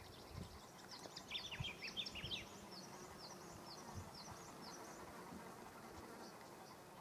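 Small birds chirping in quick, downward-sliding notes, busiest in the first few seconds and thinning out after, over a faint steady hum.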